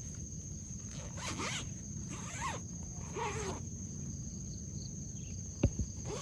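Three short rustling, scraping strokes one after another, with two sharp knocks near the end, over a steady high-pitched whine and a low rumble.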